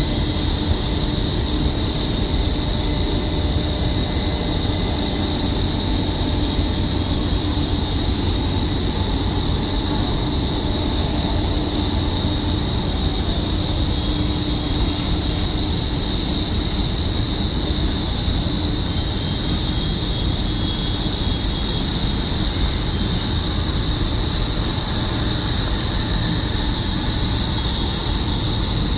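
Jet engines of a Boeing 747-400 running at low power as it taxis in to the gate: a steady low rumble with a high whine over it.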